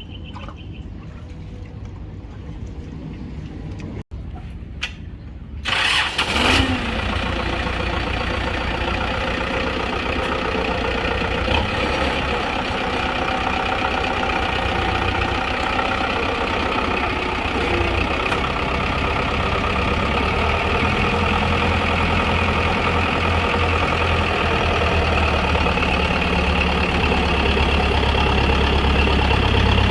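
Kubota M6040SU tractor's diesel engine, running at a low rumble, then suddenly throttled up about six seconds in. It then runs loud and steady, with its low rumble building toward the end, as the tractor works to get unstuck.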